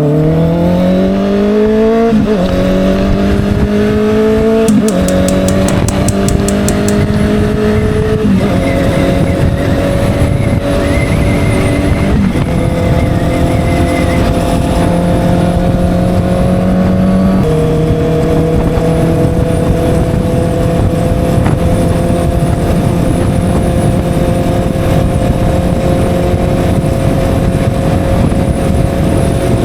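Honda CB650R inline-four with an SC Project exhaust, accelerating hard up through the gears. The engine note climbs, drops back briefly at each of five upshifts, then holds a slowly rising note at cruising speed for the second half.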